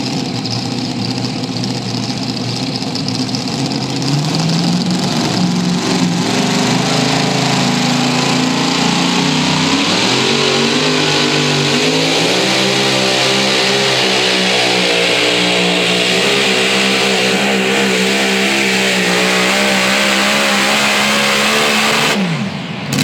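Competition pulling vehicle's engine at full throttle on a pull: its pitch climbs in steps over the first twelve seconds or so, holds high and steady, then falls sharply near the end.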